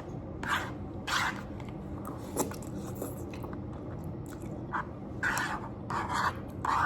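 Close-up eating sounds: noodles being bitten and chewed with wet mouth noises, in short irregular bursts that come thicker near the end.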